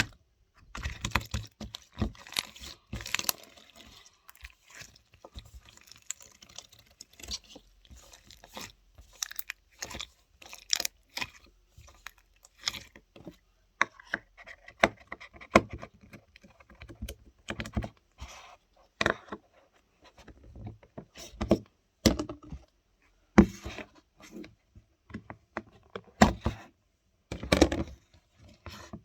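Hands squeezing, poking and stretching slime: a run of irregular sticky clicks, pops and crackles with short pauses between handfuls.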